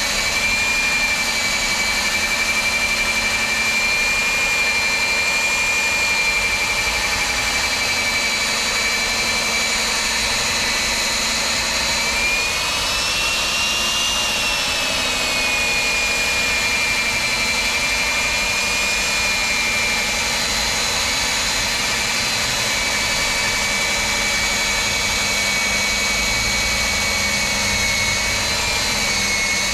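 Electric core drill with a 110 mm bit cutting through a concrete wall, its motor giving a steady high whine under load. The pitch rises briefly about halfway through, then settles back.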